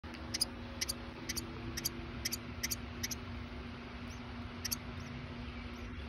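A bird giving sharp, high chirps about twice a second, thinning out after about three seconds with one more near the end, over a steady low hum.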